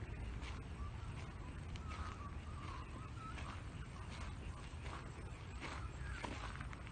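Birds calling in short warbling notes, over a steady low rumble, with a few footsteps.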